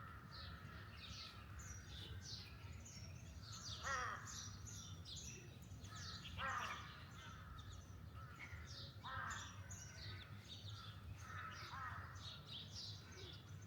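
Wild birds calling: a louder harsh call comes four times, about every two and a half seconds, over a continual scatter of short high chirps.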